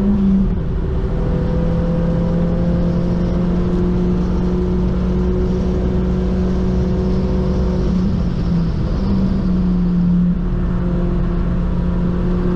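Mk1 Audi TT engine heard from inside the cabin under hard driving: a loud, steady engine note whose pitch shifts briefly a few times, about half a second in and again around eight and ten seconds.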